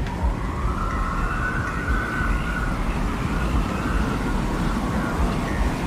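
Produced desert wind ambience: a steady low rumble with a thin wavering whistle that rises and then falls away.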